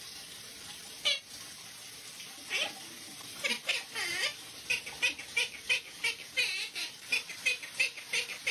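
A parrot making short, high squeaks and chirps: one about a second in, then a quick chattering run of them from about three and a half seconds on.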